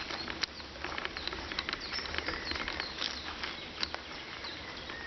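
Birds chirping outdoors, with many scattered short clicks and light rustles throughout.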